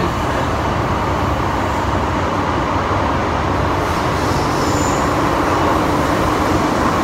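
MTR Island Line M-Train electric multiple unit running at speed through the tunnel: a steady rumble of wheels on rail and motor noise, with a faint steady hum.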